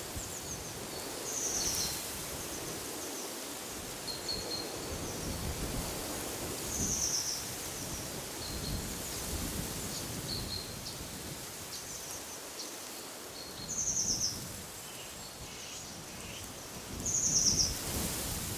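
Birds singing over steady wind: a short, rapid high phrase repeats about four times, with scattered brief chirps between, over a low gusty rumble of wind.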